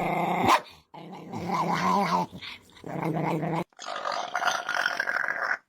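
A pet growling in several short separate bursts of about a second or two each, with abrupt cuts to silence between them.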